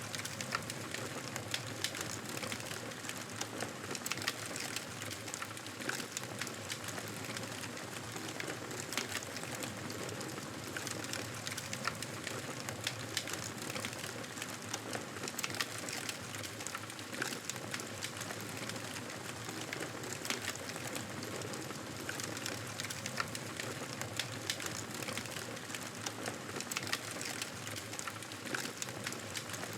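Wood fire burning in a fireplace: a steady soft hiss with frequent small crackles and pops scattered irregularly throughout.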